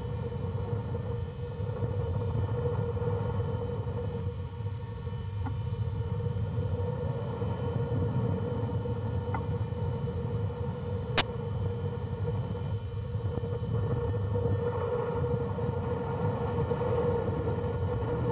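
Steady rush of wind over the on-board camera of a high-power rocket in flight, with a constant whistling tone running through it and one sharp click about eleven seconds in.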